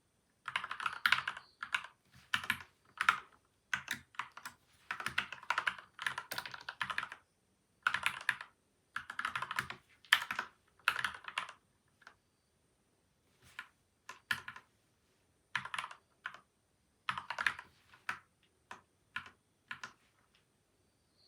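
Typing on a lubed, tape- and foam-modded PCL87 mechanical keyboard: bursts of quick keystrokes with short pauses between them, the bursts getting shorter and sparser after about twelve seconds.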